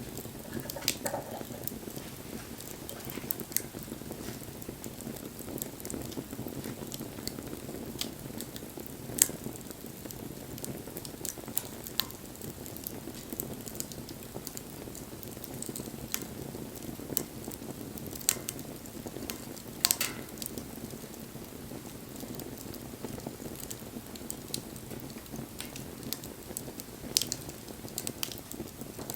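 Wood bonfire burning, with a steady soft rush of flames and scattered crackles and sharp pops. The loudest pops come about nine seconds in and about twenty seconds in.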